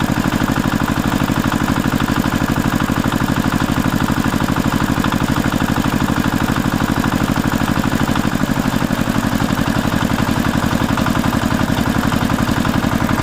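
An engine running steadily at an even idle, with a rapid regular pulse.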